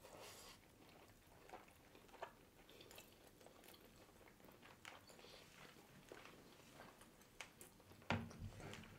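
Faint, close-miked chewing of mouthfuls of soft, moist biryani rice, with scattered small mouth clicks and light spoon clicks; a low, louder mouth sound comes about eight seconds in.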